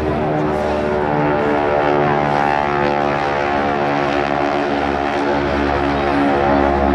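Propeller engine of a wing-walking display plane running steadily in flight, a continuous multi-toned engine drone.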